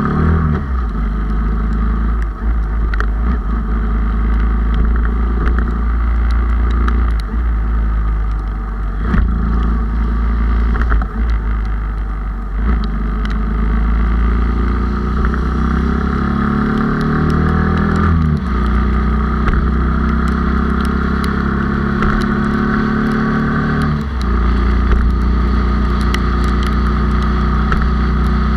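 Honda Super Cub with a bored-up 97 cc four-stroke single, high-geared with a four-speed gearbox, running steadily under way. About halfway through the engine note climbs for a few seconds and then drops suddenly, and it drops again about three-quarters through.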